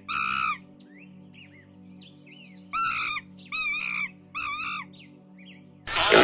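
A bird calling over soft ambient background music. There is one loud wavering call at the start, then three more in quick succession, with smaller chirps between them. Near the end a louder, different animal call begins.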